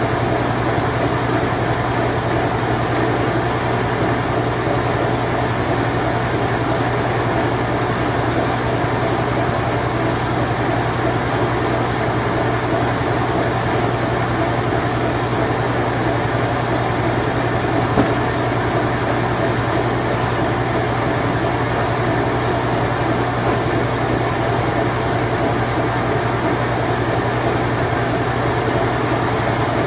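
Late-1980s Whirlpool Imperial Clean Touch washing machine running in its spin cycle: a steady low hum from the motor and spinning drum, with one faint click about two-thirds of the way through.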